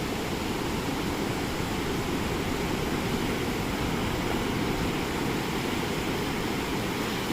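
Ocean surf washing steadily onto the beach, an even, unbroken rush of water noise.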